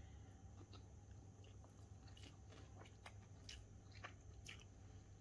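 Faint, irregular mouth clicks and smacks of someone chewing a mouthful of vegetable fried rice, coming more often from about two seconds in.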